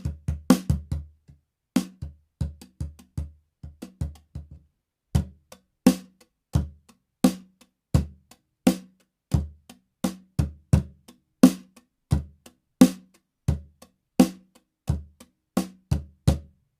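Acoustic drum kit played, recorded without processing: separate kick drum thuds and drum hits with bright cymbal-like tops in an uneven groove. The playing stops just before the end.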